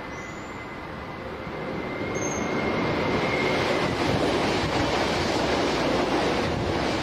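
Electric train approaching and running past close by. Its wheel and running noise build from about two seconds in and are loud from about four seconds on. A thin high whine sounds over the first few seconds.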